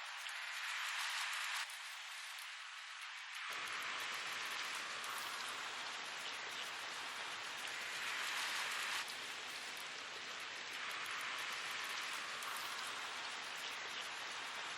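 Steady rain hiss, with no music yet. At first it is thin and high, and about three and a half seconds in it fills out with a fuller, lower rush. It swells gently now and then.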